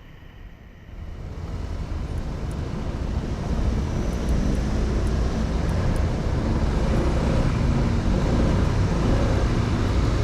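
Honda 125 cc motorcycle pulling away and riding, its engine and road noise swelling over the first three seconds, then holding steady.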